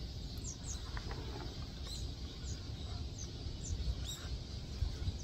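Small birds chirping: short, high calls that fall in pitch, given every second or so, over a steady low outdoor rumble.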